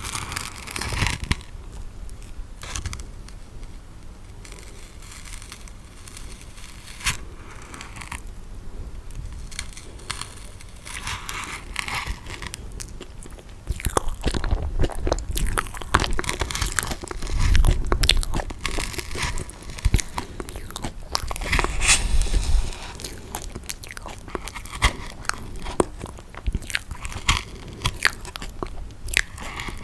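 Close-miked eating sounds: chewing toasted marshmallow, with many sharp mouth clicks and smacks, busier and louder in the middle.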